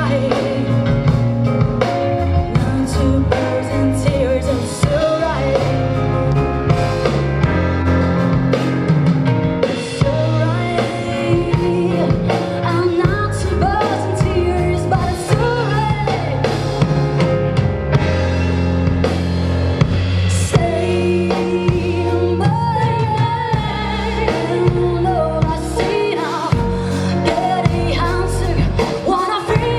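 Live rock band playing a song: a singer over drum kit with steady cymbal hits, bass guitar and electric guitar.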